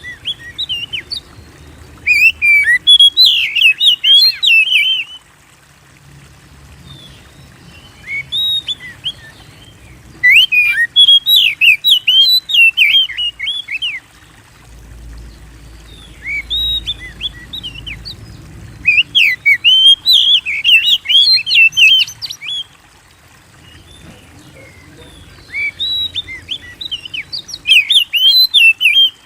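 Oriental magpie-robin singing in repeated bouts of fast, varied whistled notes, each bout lasting a few seconds, with short pauses between.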